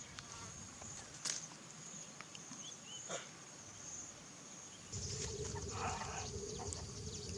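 A steady high insect drone with a few sharp clicks and faint short chirps; a lower steady hum and rumble join about five seconds in.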